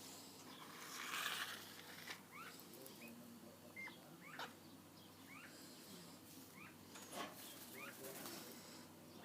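Birds chirping: short rising chirps repeated roughly once a second, with a brief rustling noise about a second in.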